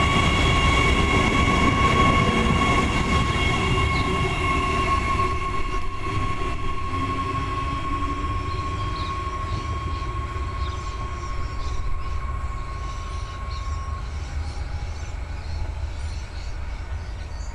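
Adelaide Metro electric passenger train running past: a steady low rumble of wheels on rail with a steady high-pitched whine over it. The whine fades out about three quarters of the way through and the rumble slowly gets quieter as the train moves away.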